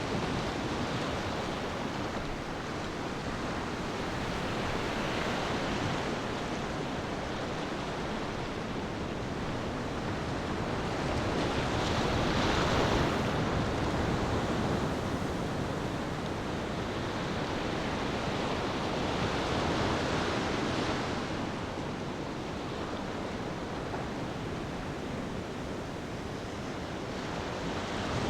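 Ocean waves washing onto a beach in slow swells, loudest about twelve seconds in and again around twenty seconds.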